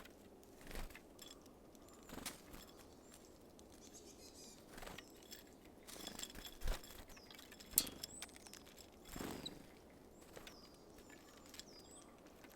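Small songbirds at a feeder giving short, high call notes that drop in pitch, again and again, with scattered sharp taps and knocks from birds landing and working at the seed.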